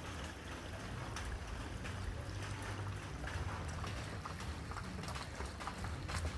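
Outdoor ambience: a steady low rumble with light, irregular clicks and taps scattered through it.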